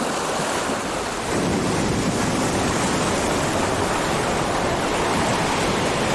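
Ocean surf washing in a steady rush, swelling louder about a second in.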